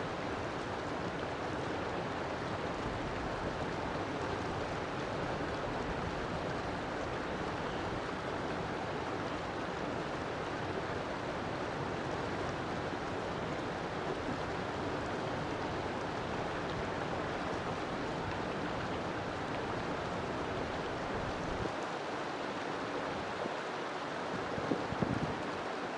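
River water flowing steadily, an even rushing sound, with one short louder sound near the end.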